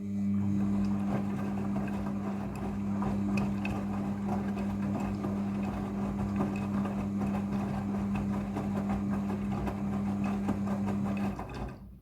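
Midea front-loading washing machine running, with a steady electrical hum and a rushing noise with small ticks over it. It switches on with a click and cuts off near the end.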